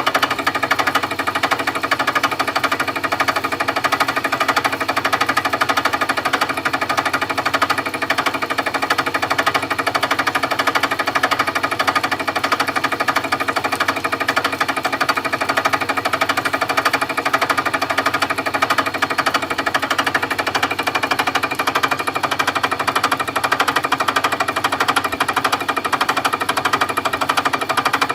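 Milling machine cutting: a loud, steady, fast rattle with steady tones over it.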